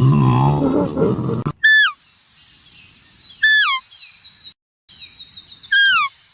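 A low, drawn-out animal call, then three short bird calls about two seconds apart, each falling in pitch, over a steady high-pitched tone.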